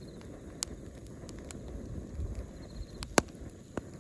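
Bonfire of dry firewood burning: a steady low rush of flame with scattered sharp crackles and pops, the loudest about three seconds in.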